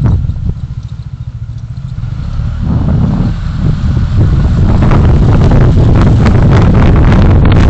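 Riding in traffic: wind buffeting the camera's microphone over a low vehicle engine rumble. The noise dips for the first two seconds or so, when a low pulsing engine beat comes through, then builds back up and holds steady as speed picks up.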